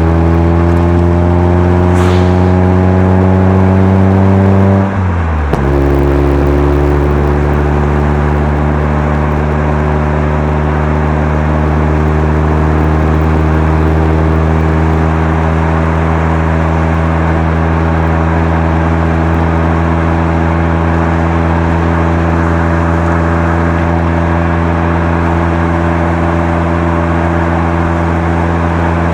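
Mazda FC3S RX-7's twin-rotor rotary engine through a Knight Sports Legal Sports muffler, heard from inside the car while driving. It pulls with rising pitch, drops sharply at a gear change about five seconds in, then cruises with a steady, slowly rising note.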